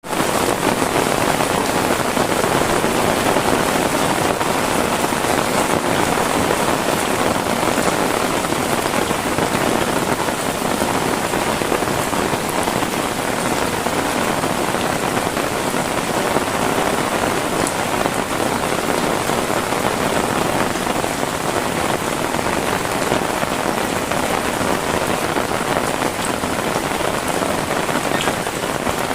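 Heavy rain falling steadily: a dense, even hiss of rain with no break.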